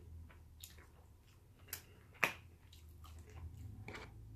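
A person chewing food, quiet mouth sounds broken by a few short sharp clicks, the loudest about two seconds in.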